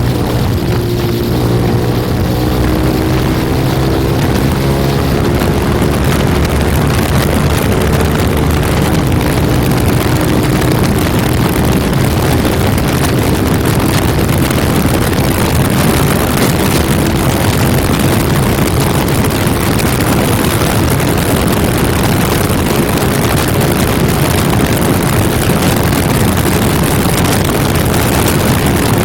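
Honda MSX125's single-cylinder four-stroke engine through a Yoshimura full exhaust, accelerating with its pitch rising over the first few seconds, then held flat out at top speed under heavy wind rush.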